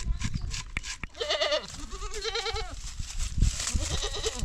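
A goat bleating three times, each call quavering in pitch.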